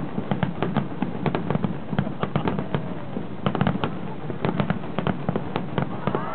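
Aerial fireworks display going off: many sharp bangs and crackles in quick, irregular succession over a continuous low rumble.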